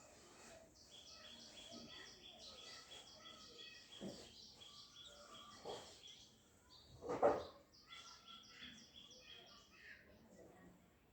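Small birds chirping, a quick series of short high chirps repeated over and over. Three louder brief noises cut in, the loudest about seven seconds in.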